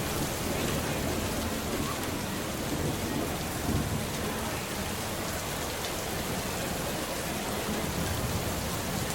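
Steady rain hiss with low thunder rumbling beneath it, swelling briefly a little under halfway through and again near the end.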